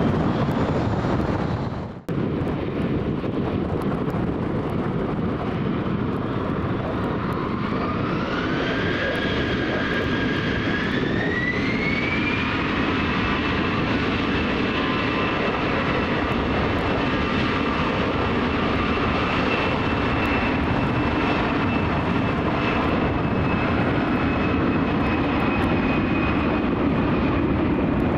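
Airbus A320 jet engines spooling up to takeoff power: a whine climbs in two steps, about 8 and 12 seconds in, then holds steady over a continuous rumble as the jet begins its takeoff roll. A brief break in the sound about 2 seconds in.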